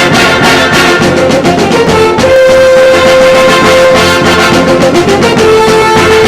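Brass band music playing loudly, with long held notes.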